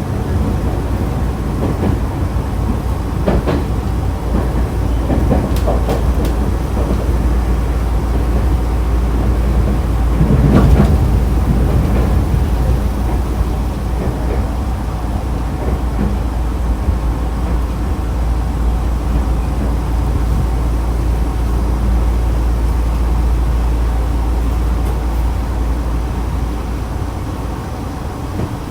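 Nankai 2000-series electric train (set 2036F) running, heard from inside the car. Wheels and running gear make a steady low rumble. A few clacks come over rail joints, mostly in the first dozen seconds, and the noise eases slightly near the end.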